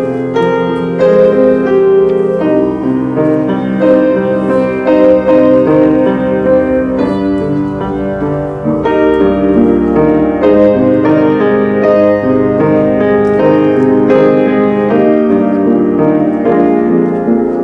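Solemn piano music with held chords, played as the tune for a moment of silent tribute to fallen patriots.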